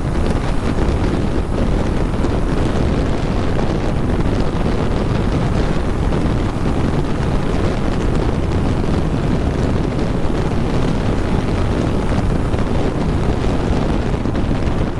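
Steady wind noise rushing over a helmet-mounted microphone on a motorcycle riding at speed.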